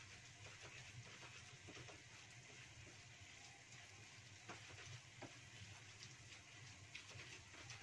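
Pieces of stingray cooking in oil and sauce in a wok, sizzling faintly with scattered small pops and crackles over a low steady hum.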